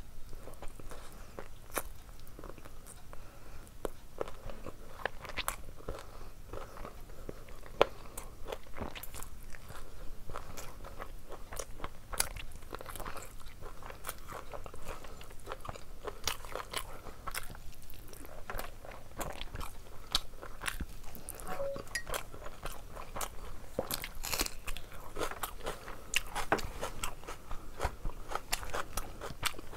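Close-miked eating: a person chewing and biting mouthfuls of mutton curry and rice, eaten by hand, with many small wet mouth clicks and smacks throughout.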